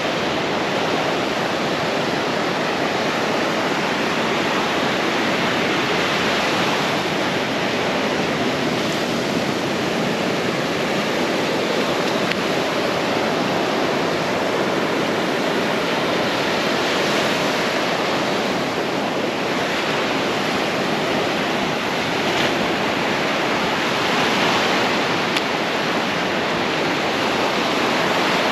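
Ocean surf on a beach: a steady rush of waves breaking and washing in, swelling a little every several seconds.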